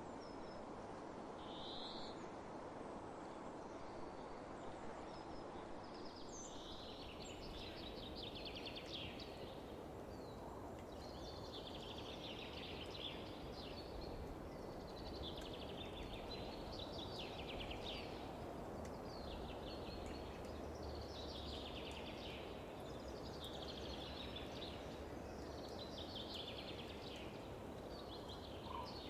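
Wind noise over open fields, with a songbird repeating the same short trilled phrase about every two seconds from several seconds in.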